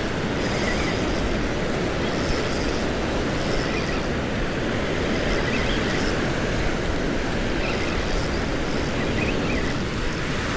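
Steady wind rumble and surf noise on the beach, heavy in the lows, with a few faint short hisses.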